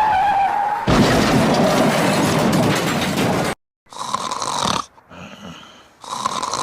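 A loud, noisy sound effect lasting a couple of seconds, then a comic snoring sound effect: two loud snores, each followed by a quieter breath out.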